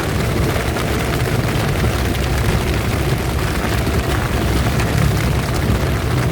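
Heavy rain falling steadily over a constant low rumble.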